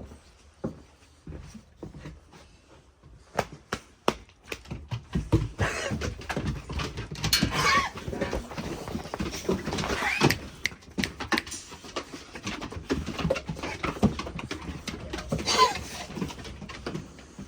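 Dogs panting and moving about close by. It is quiet for about three seconds, then comes a busy run of clicks and knocks, with a few short gliding whine-like calls.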